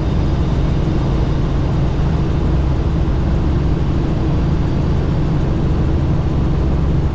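Steady drone of a helicopter's engine and rotor in flight, heard from inside the cabin with the doors off.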